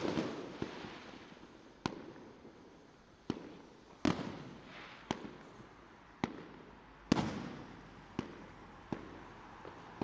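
Fireworks going off: a string of sharp bangs and cracks, several of them followed by a long rumbling echo, with the biggest bursts near the start and about four and seven seconds in.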